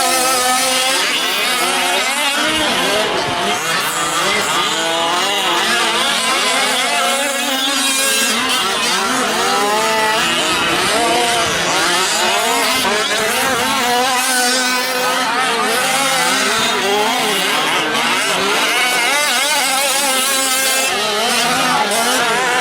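Several 1/5-scale gas RC trucks' small two-stroke engines running at once, each revving up and down in overlapping rising and falling whines.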